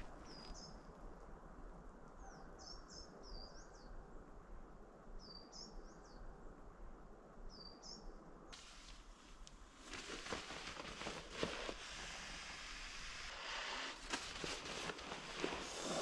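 A small bird calling: short high chirps in little groups of one to four. About eight seconds in the calls stop and give way to rustling with scattered clicks.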